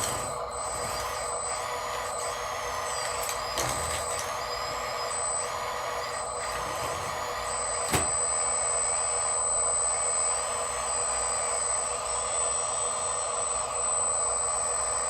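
Radio-controlled construction machine running: a steady whine of several even tones, with one sharp click about eight seconds in.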